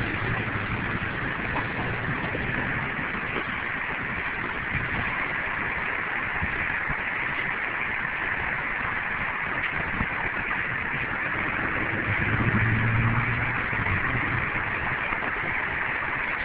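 Steady engine noise, with a low hum that grows louder about twelve seconds in.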